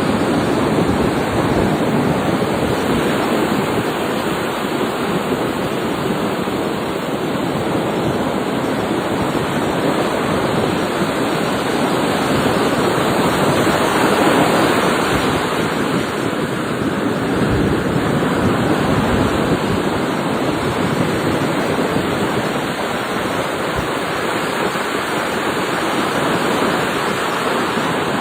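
Sea waves: a loud, steady rush of surf that swells a little about halfway through.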